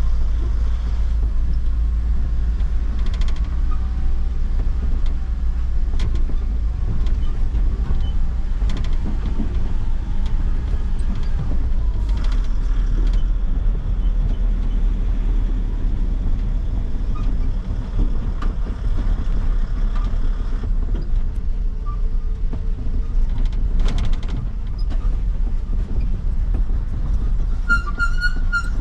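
Truck running along the road: a steady deep engine and road rumble with scattered rattles and knocks. Near the end comes a quick run of short high beeps.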